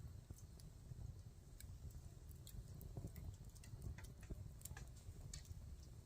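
Wood campfire crackling: faint, irregular sharp pops and ticks from the burning wood over a low, steady rumble.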